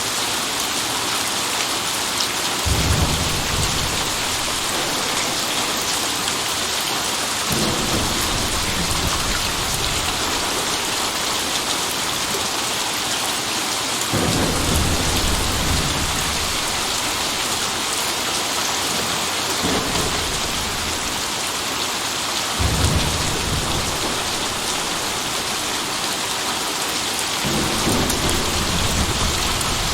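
Steady heavy rain hissing, with low rolls of thunder rumbling in about six times, each lasting a second or two.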